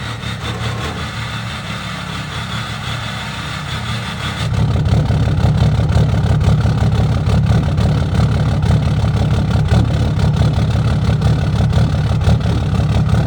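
Cummins inline-six turbo-diesel in a Ram pickup idling cold at 22 degrees, with a steady diesel clatter. It becomes clearly louder about four and a half seconds in and holds there.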